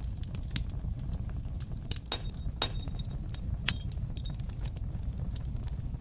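Wood fire crackling in a fireplace: a steady low rumble from the burning fire under a constant scatter of small sharp pops and snaps, with a few louder snaps between about two and four seconds in.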